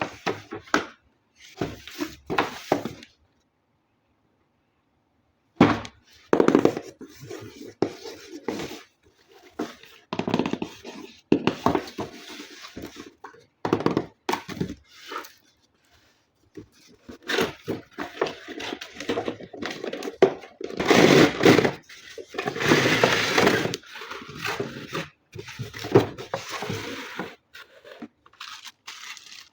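Toy packaging being handled and opened: cardboard and plastic scraping, rustling and tearing, with knocks, in irregular bursts broken by a few dead-silent gaps. The longest, loudest stretch comes about two-thirds of the way through.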